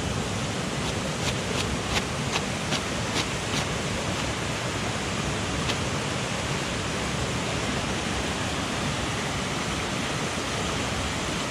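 Steady rush of a mountain headwater stream. A quick run of sharp clicks comes a second or so in, and a single click follows a little before halfway.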